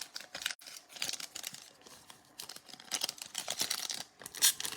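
Crinkling and rustling of a foil trading-card pack wrapper and cards being handled: scattered crackles at first, growing busier from about halfway through.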